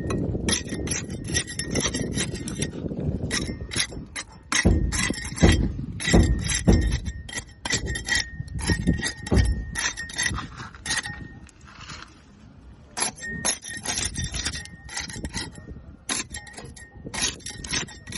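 Barnacles being scraped off a boat hull: rapid rasping strokes and clicks, with heavier knocks in the middle and a brief pause about twelve seconds in.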